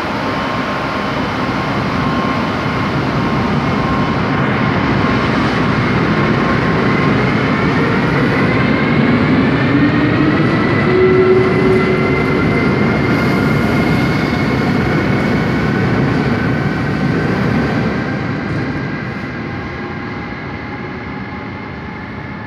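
Amtrak ACS-64 electric locomotive and its train pulling away from the platform, with wheel and rail noise and a whine that rises in pitch as it gathers speed. The sound fades over the last few seconds as the train recedes.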